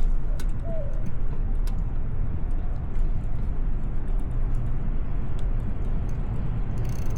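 Steady low rumble of wind and road noise on a bicycle-mounted camera while riding, with a few scattered faint clicks.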